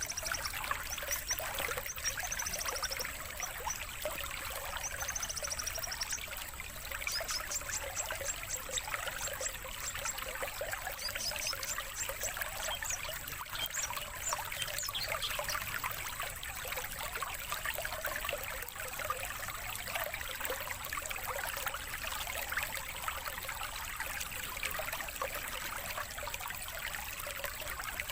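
Steady sound of running stream water. Over it, small birds give quick high chirps and short trills for the first half or so, then they stop. A thin steady high tone runs underneath.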